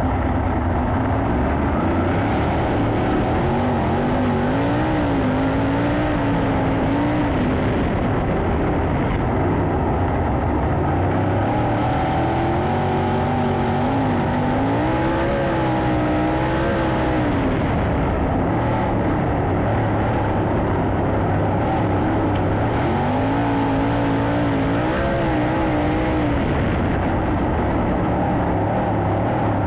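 A pack of 410 sprint cars racing on a dirt oval, their engines revving up and down through the laps in one steady, loud din.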